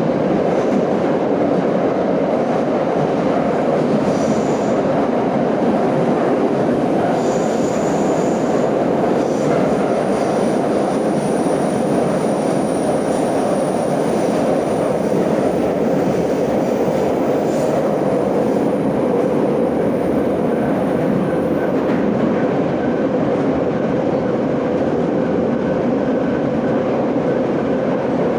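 Moscow Metro 81-717 'Nomernoy' subway car running at speed through a tunnel, heard from inside the car: a steady roar of wheels and traction motors, with faint high wheel squeal in the middle stretch.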